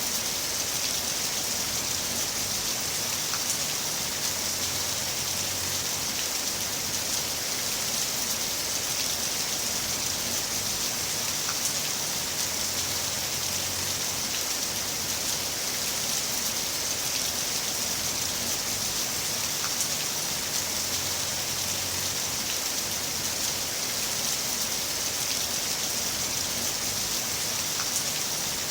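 Heavy rain falling steadily: a dense, even hiss of rain on surfaces, with a few sharper drop ticks now and then.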